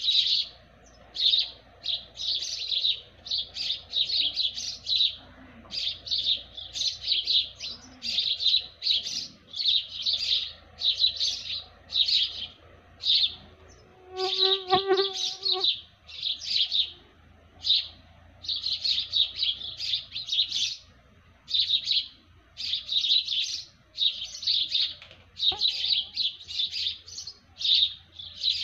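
Small birds chirping in a continuous, rapid chatter, the high calls coming in short dense clusters one after another. About halfway, a brief lower call with a clear pitch sounds once.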